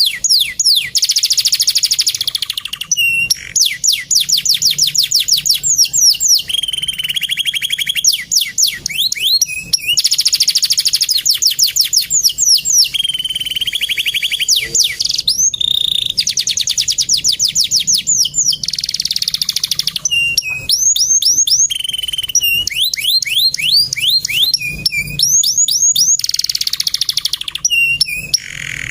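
Male domestic canary singing continuously and loudly: long rolling trills of fast repeated notes alternating with rapid sweeping phrases and held whistled notes, with only brief pauses between phrases.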